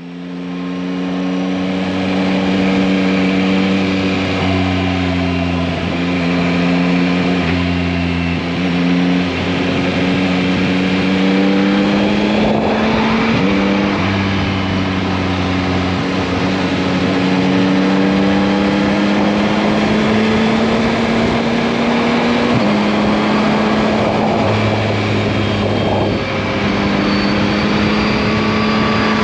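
Yamaha MT-09 (RN69) 890 cc three-cylinder engine running on a ride, its note climbing slowly with several sudden changes in pitch, about nine, thirteen and twenty-two seconds in.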